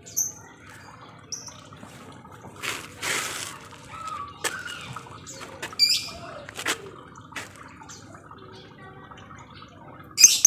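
Lovebirds giving scattered short, high-pitched chirps and squawks, with a harsh noisy burst about three seconds in and a loud cluster of chirps near the end.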